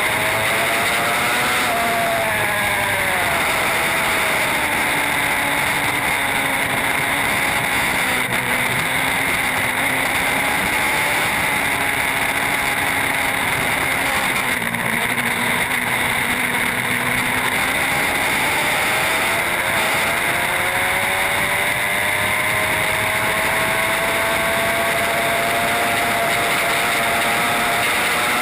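Racing superbike engine at speed, its pitch dropping in the first few seconds, holding low through the middle, then climbing steadily again near the end. A constant rush of wind noise sits over it.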